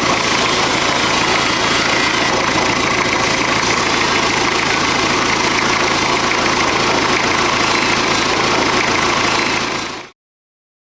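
Freshly restored GAZ-69's four-cylinder side-valve engine idling steadily; the sound cuts off abruptly about ten seconds in.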